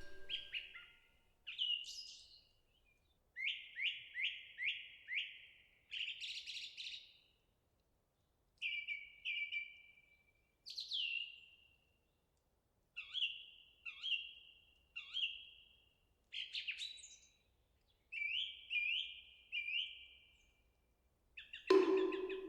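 Small songbird chirping: runs of three or four quick falling chirps, with short pauses between the runs. Near the end a louder struck, ringing sound comes in.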